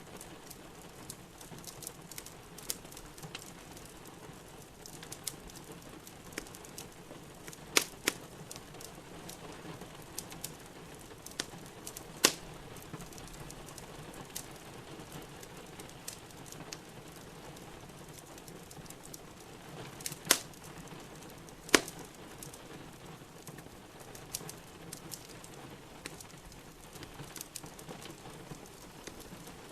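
Wood fire in a fireplace crackling, with scattered small clicks and about five sharp, loud pops, over a steady patter of rain.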